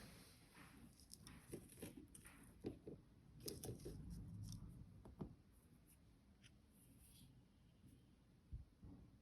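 Near silence with a scattering of faint taps and soft rustles in the first half, like small objects being handled, then nothing.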